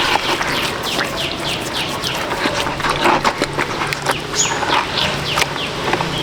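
Many small birds chirping: quick high peeps that fall in pitch, several a second and overlapping, over a steady background murmur, with one short higher whistle about four seconds in.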